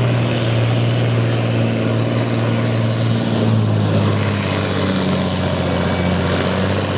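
Pulling tractor's big diesel engine running hard at high revs under load, a loud steady drone whose note drops about four to five seconds in.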